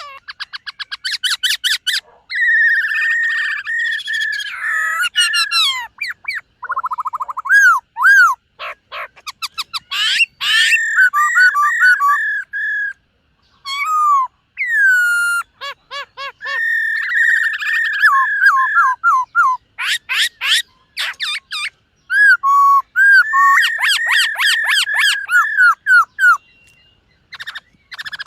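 Black-throated laughingthrush singing a loud, varied song of whistled phrases: rapid trills and runs of quick slurred notes, broken by a few short pauses.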